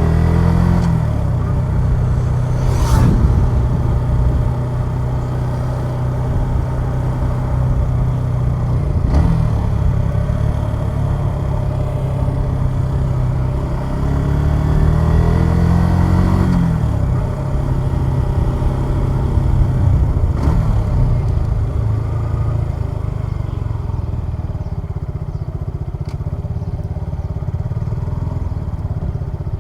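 Suzuki Gixxer 150SF's single-cylinder engine running on the road. Its pitch rises as it accelerates near the start and again about halfway, with a short drop at each gear change, and it settles to a steadier, quieter note near the end.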